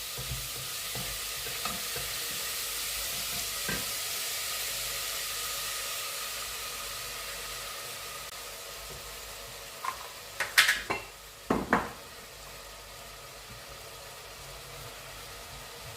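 Food frying in a pan, a steady sizzling hiss that gets a little quieter in the second half. Between about ten and twelve seconds in come a few sharp clanks, like a utensil knocking against the pot.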